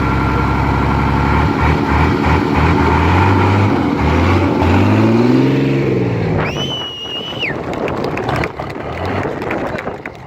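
Off-road truck's diesel engine revving hard, its pitch climbing in several surges and then dropping away. A shrill whistle sounds for about a second just past the middle.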